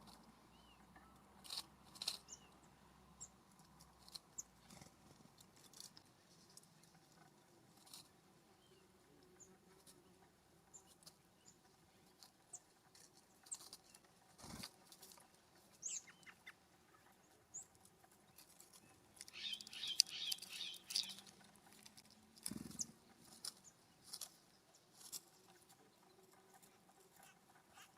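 Faint wild birdsong: scattered short chirps and thin high notes, with a rapid chattering run of calls about twenty seconds in. Light ticks and two dull thumps are heard among the calls.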